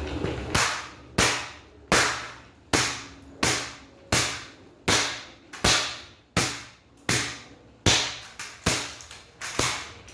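Repeated hard blows smashing an HPM style 1 exhaust fan, about three every two seconds, each a sharp crack that dies away quickly as the fan's housing breaks up.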